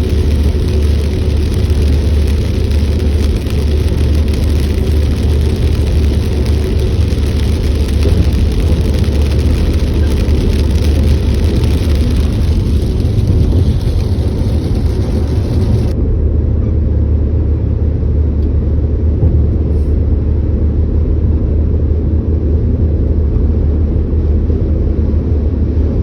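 A car driving along the road, with a steady low rumble of engine and road noise and no sudden events.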